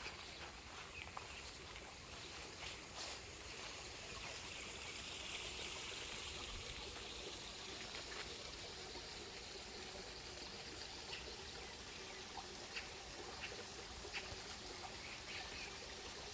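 Water trickling steadily in a small stream, with scattered faint ticks.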